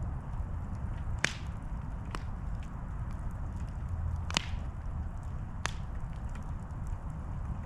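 Wood campfire burning with a steady low rumble, broken by four sharp pops from the burning logs, the loudest about a second in and again just past the middle.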